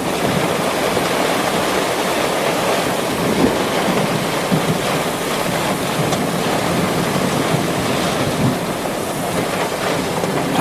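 Heavy rain and gusty wind of a severe thunderstorm, with wind buffeting the microphone, making a loud, steady rush of noise.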